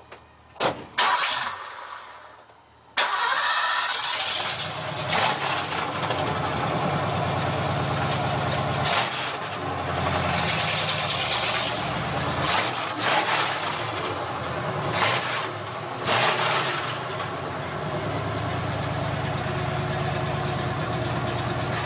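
Car engine starting: a couple of clicks and cranking, catching with a sudden loud burst about three seconds in, then running with several brief blips of the throttle.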